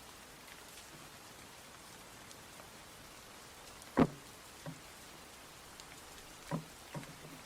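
Steady light rain hissing, with heavy drops knocking on a hard surface: one loud knock about four seconds in and a few softer ones near the end.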